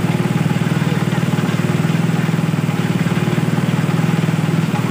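Small engine-driven water pump running steadily at constant speed, with a fast, even engine beat.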